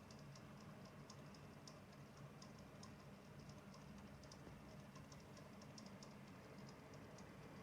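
PC power-supply fan running with a faint low hum and an irregular high clicking, a few clicks a second: the clattering of a faulty fan.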